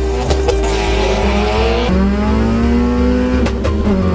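A drag-racing car's engine accelerating hard: its revs climb several times and drop back at each gear change, over electronic music with a steady beat.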